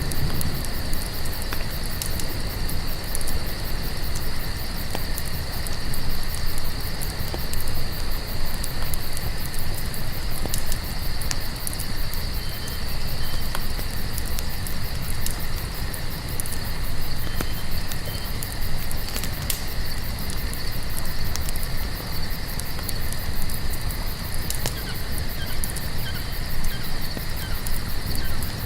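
Crickets chirping in a steady, dense chorus over a crackling campfire with a low, continuous rumble and scattered pops.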